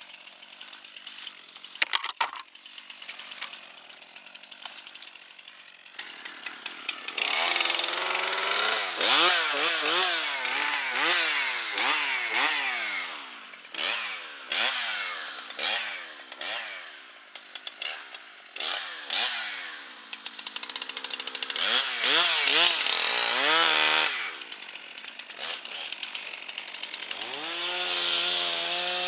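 Gas chainsaw starting about seven seconds in after a quieter stretch that holds one sharp knock. It revs up and down over and over, about once a second, then settles into a steady high-revving run near the end.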